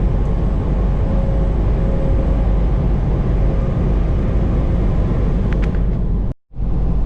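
Steady low drone and road rumble inside a semi-truck cab cruising on the highway. The sound cuts out for a moment near the end.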